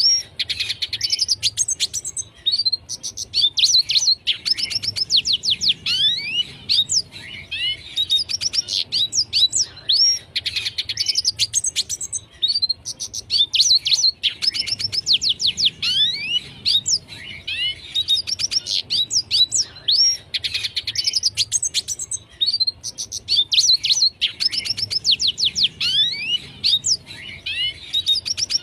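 Red siskin singing continuously: fast high trills and sliding whistled notes in phrases, with short breaks between them every couple of seconds.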